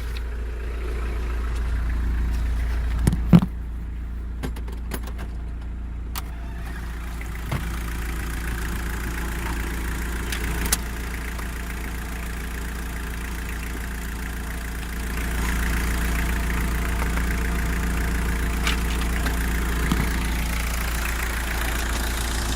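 Mitsubishi Delica L300's four-cylinder turbo diesel engine idling steadily, louder from about two thirds of the way in. A loud clunk about three seconds in and a few lighter clicks follow, as of a cover or panel being opened.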